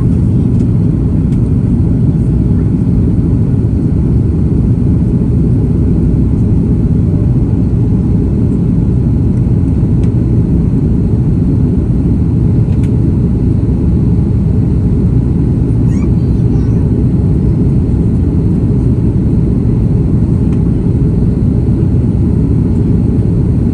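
Steady low rumble of a jet airliner heard from inside the passenger cabin, engine and airflow noise with no change in level.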